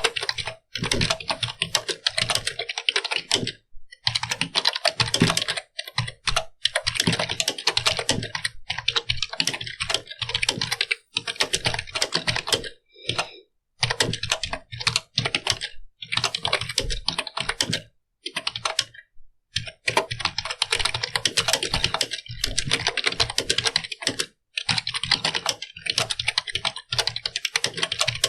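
Continuous typing on a computer keyboard: rapid runs of key clicks lasting a few seconds each, broken by short pauses, with a longer pause about two-thirds of the way through.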